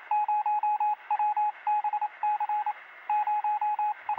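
A single-pitched electronic beep keyed on and off in short and long beeps, like Morse code, over a faint hiss and with a thin, radio-like sound.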